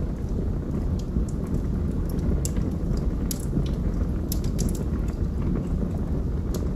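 Log fire burning with a steady low rush of flame and sharp, irregular crackles and pops from the burning wood, several in quick succession in the middle.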